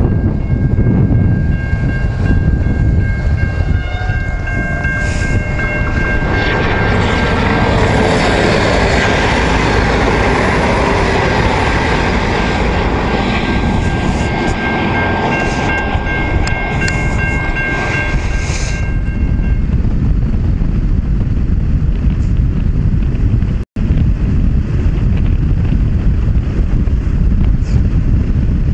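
A passenger train passing a level crossing, its rumble and rush loudest for about ten seconds in the middle, with steady high ringing tones. After the train goes by, the sound turns to a motorcycle riding on with wind rushing over the microphone.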